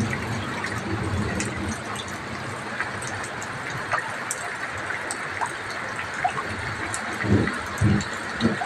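Heavy rain falling steadily, with many scattered drop ticks, and a few short low rumbles near the end.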